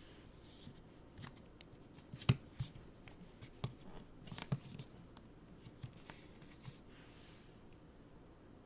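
Hands handling a boxed pin badge set and its packaging: scattered small clicks and taps, the loudest about two seconds in, and a short run of rustling and tapping around four and a half seconds.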